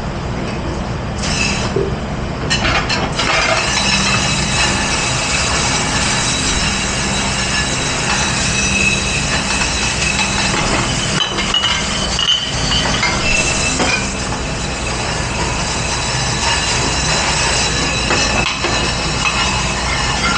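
A few clatters of dishes, then a commercial dishwashing machine running steadily: a rushing spray of water over a motor hum with a high whine.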